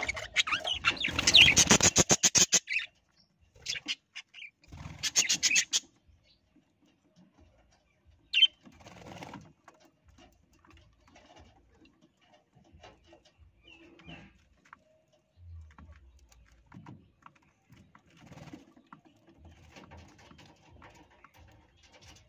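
Pet parrot flapping its wings in a rapid run of strokes, then a shorter second flurry, followed by one short sharp call and faint chirps and rustling.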